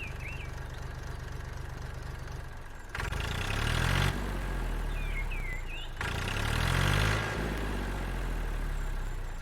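Small engine idling with a fast, steady putter, then revving up briefly about three seconds in and again about six seconds in.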